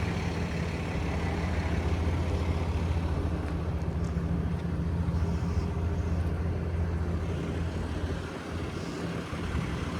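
The Ram 5500's 6.7-litre Cummins turbo diesel idling, a steady low hum that fades somewhat about eight seconds in.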